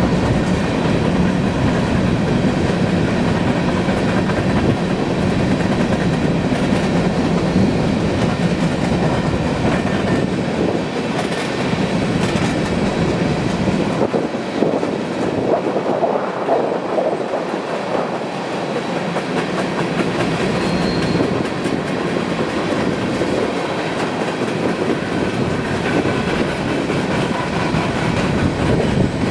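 A train rolling past, the steady noise of its wheels on the rails.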